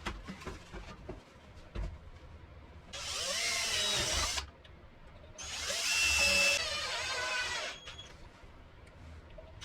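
A power tool's electric motor runs in two bursts, the first about a second and a half long and the second about two seconds, with a whine that shifts in pitch as it spins up and down. Short knocks and clicks come before and between the bursts.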